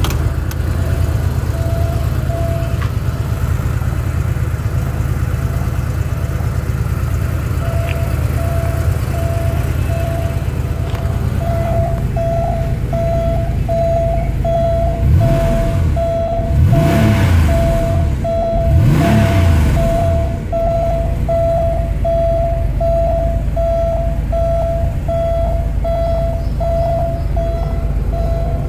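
1990 Porsche 911 Carrera 2's air-cooled 3.6-litre flat-six idling, blipped three times in quick succession about halfway through. A repeating electronic beep pulses steadily over it.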